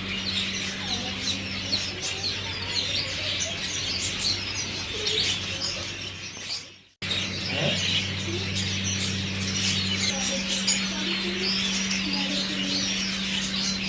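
Many small caged birds chirping and tweeting at once, a dense, continuous chatter of high calls, over a steady low electrical hum. The sound fades and cuts out briefly about halfway through, then the chirping resumes.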